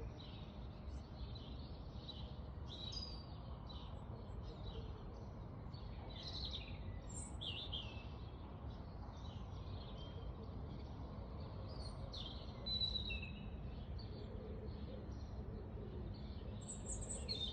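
Several small birds chirping and singing in short overlapping phrases throughout, over a steady low background rumble.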